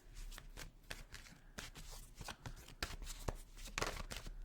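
Tarot cards being shuffled and handled, a run of irregular light clicks and flicks.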